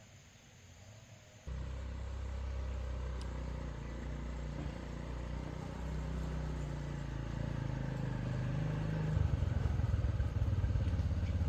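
A small engine running steadily, then louder with a fast, even pulsing from about nine seconds in.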